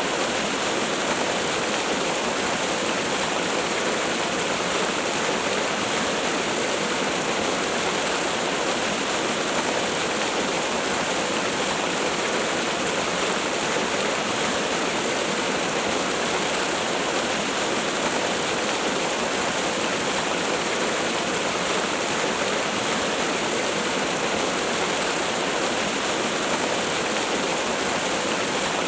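Waterfall running steadily, a constant rushing of falling water.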